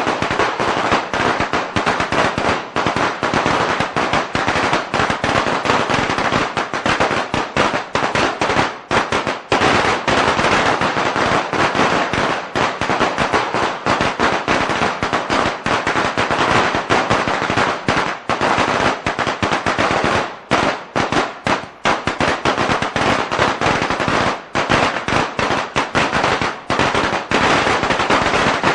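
A long string of firecrackers going off in a dense, continuous rapid crackle of bangs, with a few brief gaps partway through.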